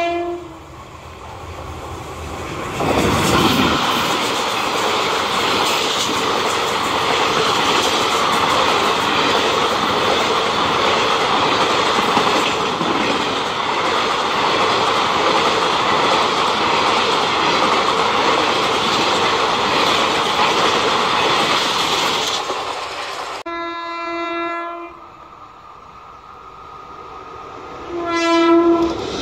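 Indian Railways express train passing a level crossing at speed. Its approach rises over a couple of seconds into about twenty seconds of loud, steady wheel-and-rail rush and clatter, which cuts off abruptly once the last coach has gone. Then a train horn sounds twice: a blast of over a second, and a shorter one near the end.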